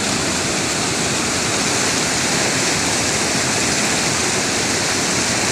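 Waterfall rushing: a loud, steady roar of falling water close by.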